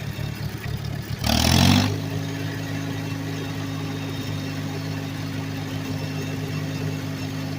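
1968 Ford 4000 tractor's carbureted three-cylinder gasoline engine running; about a second in it speeds up with a brief loud rushing hiss, then holds steady at the higher speed.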